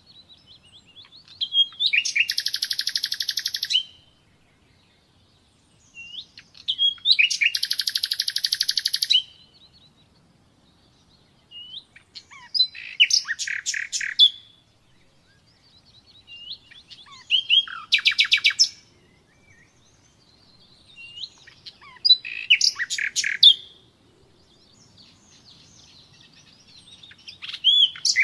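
Common nightingale singing: about six phrases with pauses of two to three seconds between them, two of them long, rapid buzzing trills and the rest quick runs of sharp repeated notes.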